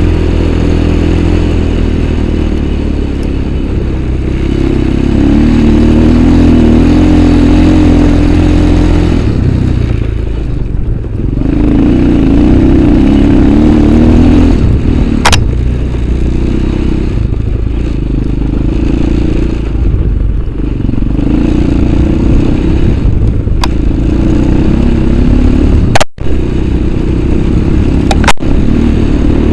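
Off-road motorcycle engine revving up and easing off in repeated bursts as it is ridden, with a few sharp clicks in the second half.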